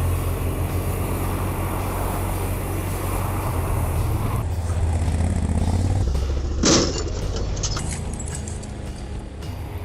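Motor vehicle engine running with a steady low drone under road and wind noise, and one sharp knock about seven seconds in.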